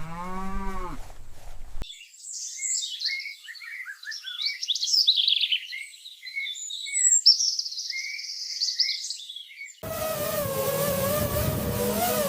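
A cow's moo ends in the first second, then an abrupt cut to high birds chirping and trilling. Near the end, a steady engine sound comes in with a wavering hum.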